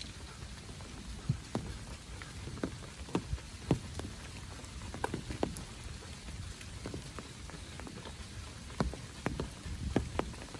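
Rain falling, with big drops striking close by at irregular moments over a steady wash of rainfall.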